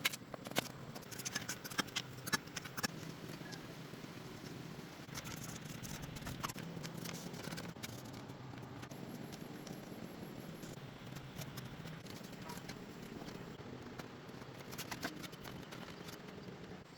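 Irregular sharp clicks and snips, coming in clusters with short pauses between, over a faint steady low background.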